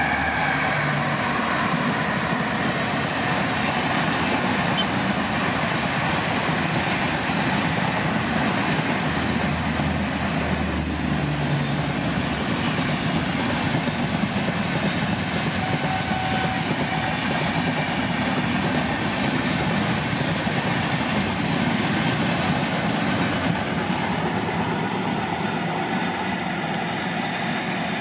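Express passenger train hauled by a WAP-7 electric locomotive passing at about 130 km/h: a steady, continuous rush of wheel and rail noise with no let-up.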